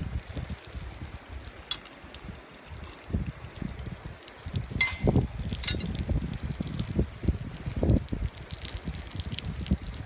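Wind gusting on the microphone over a steady hiss of running river water, with a few sharp clicks.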